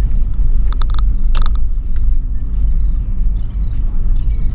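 A 2013 Toyota 4Runner SR5 with its 4.0-litre V6 driving off-road over sand dunes: a steady low rumble from the engine and drivetrain, with a few short clicks and creaks in the first second and a half.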